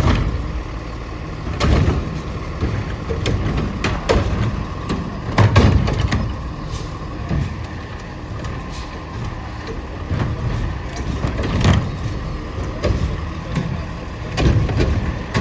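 Autocar ACX garbage truck with a Heil Curotto-Can loader, its diesel engine running with repeated clunks and thumps scattered throughout.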